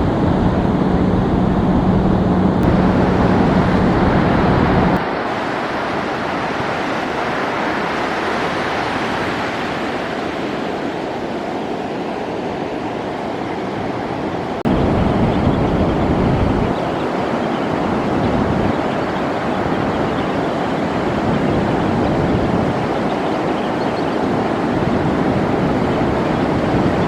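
Ocean surf washing on a beach, with wind buffeting the microphone. A steady low hum runs through the first five seconds, and the sound changes abruptly about five and fifteen seconds in.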